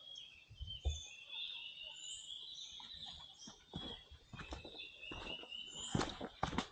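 Footsteps on a forest trail during a descent, growing stronger and more frequent about halfway through, with birds chirping steadily in the background.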